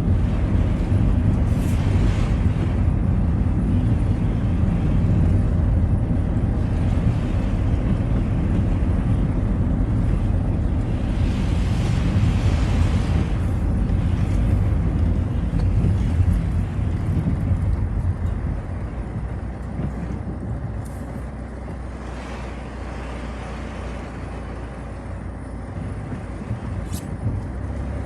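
Citroën Xsara driving on a wet road, a steady low rumble of engine and tyres with a brief rise of hiss about twelve seconds in. The rumble drops off a little after halfway, as the car slows, and picks up again near the end.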